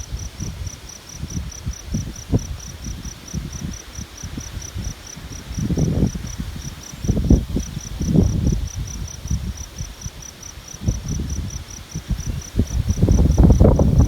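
A cricket chirping steadily at a high pitch, about four to five chirps a second. Gusts of wind buffet the microphone in low irregular rumbles, which are the loudest sound and build up near the end.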